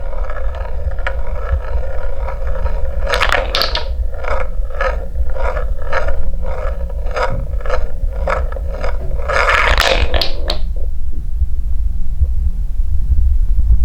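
Wooden balls rolling down a wooden marble-run track: a rolling rumble with evenly spaced clacks about twice a second, a denser clatter near the ten-second mark, then the clacks stop and only the low rumble goes on.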